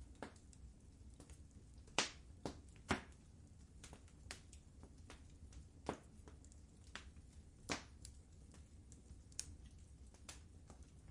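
Wood fire in a fireplace crackling: irregular sharp pops and snaps over a low steady rumble, the loudest pops about two and three seconds in and again near eight seconds.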